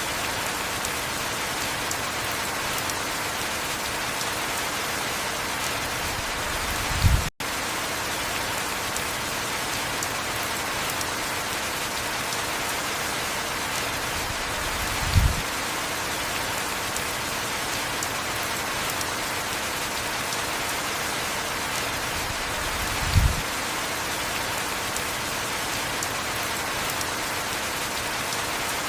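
Heavy rain falling steadily, an even hiss of rain on surfaces. Short low thuds come about every eight seconds, and the sound cuts out for an instant just after the first thud.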